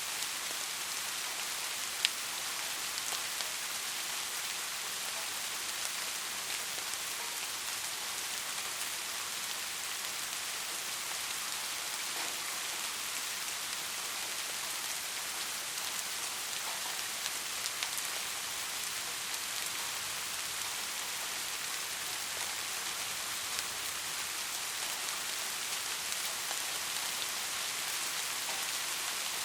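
Steady rain falling: a dense, even hiss with scattered drop ticks, one sharper tick about two seconds in.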